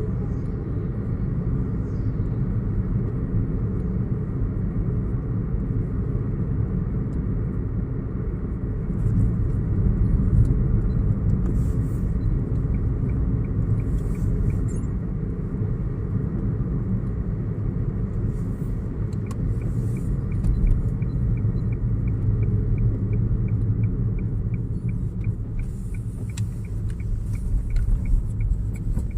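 Car driving, with a steady low road rumble. A faint regular ticking, about two ticks a second, comes in twice: briefly partway through, and again through most of the second half.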